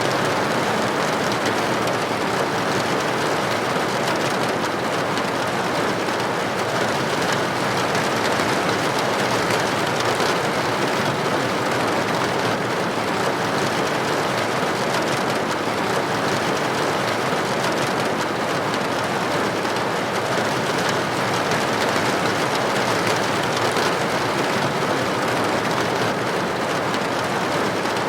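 Steady rain with droplets striking a building window, an even, unbroken hiss of water on glass.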